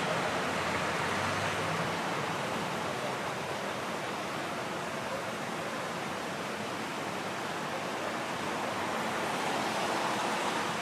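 Steady rushing roar of a jet airliner's engines, easing a little and swelling again near the end.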